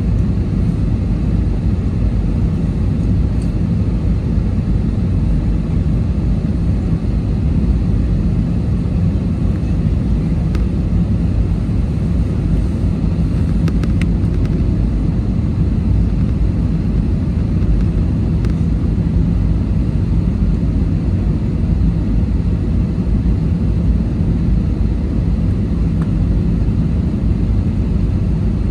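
Steady low rumble of an airliner's engines and airflow heard inside the passenger cabin, even in level throughout.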